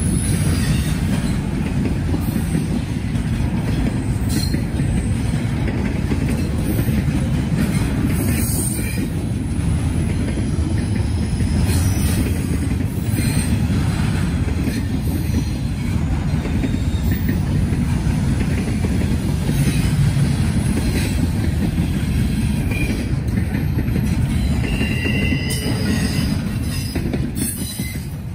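Norfolk Southern freight train rolling past: a steady, heavy rumble of cars on the rails, with brief high-pitched wheel squeals here and there, most noticeably a few seconds before the end.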